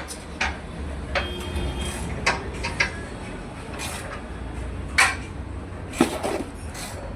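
Irregular metallic clinks and knocks, about seven sharp strikes, the loudest about five and six seconds in, over a low steady rumble.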